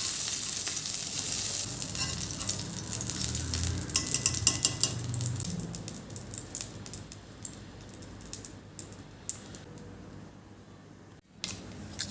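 Food sizzling as it fries in a pan, with a utensil stirring and clicking against the pan. The sizzle fades over the second half, and there is a sharp break shortly before the end.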